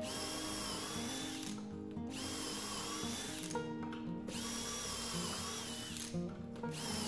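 DeWalt brushless cordless drill boring dowel holes into butternut through a Dowelmax jig's steel guide bushings. It runs in four short bursts with brief stops between them, a high motor whine that wavers in pitch as the bit cuts.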